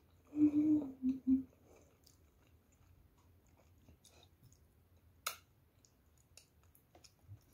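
A woman's short hummed "mm-mm", in three pieces and falling slightly in pitch, with her mouth full, about half a second in. Then quiet chewing of battered fried crab sticks with scattered soft mouth clicks, one sharper click about five seconds in.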